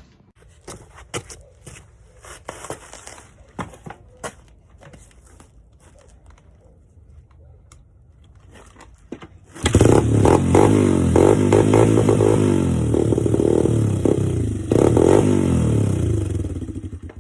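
Honda CRF100F dirt bike's small single-cylinder four-stroke engine, fitted with an off-brand aftermarket exhaust. Scattered clicks and scrapes come first, then about ten seconds in the engine catches suddenly and runs loudly with a rising and falling note until just before the end.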